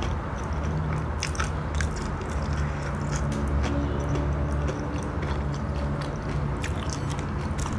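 Close-miked closed-mouth chewing of soft, chewy food, with wet mouth clicks scattered through it, over a low uneven hum.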